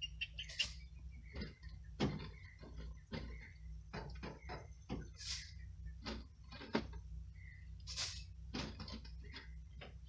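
Wood-shavings bedding being handled and spread in a chicken coop: irregular knocks and clicks, with a short rustling swish about every two to three seconds.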